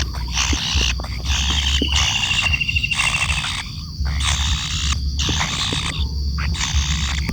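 Tengkek kayu kingfisher calling in a run of harsh, rasping notes of about half a second each, with short gaps between them. A thin, slightly falling trill runs through from about one and a half seconds in.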